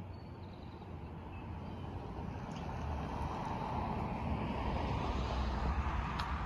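A vehicle going past: a rumbling noise that builds gradually to its loudest near the end, then begins to fade.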